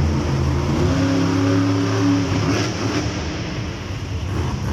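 Monster truck engine running loudly at a steady pitch, easing off after about two seconds.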